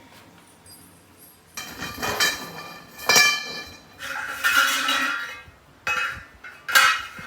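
Metal pieces knocking and clinking against each other in several separate strikes, some leaving a short metallic ring.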